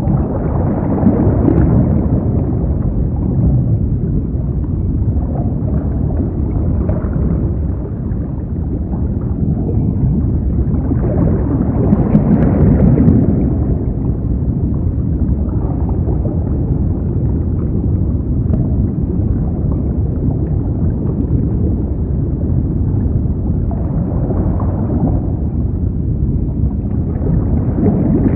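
Water rushing, a dense low and muffled roar that swells louder about every ten seconds.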